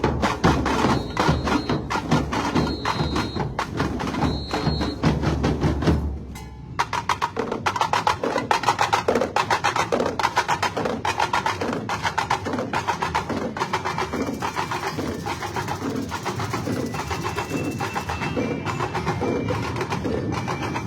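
Fast, steady carnival parade percussion, with drums and sharp wood-block-like clicks. A heavy bass beat stops about six seconds in, and the drumming carries on without it. A few short, high tones sound over the top.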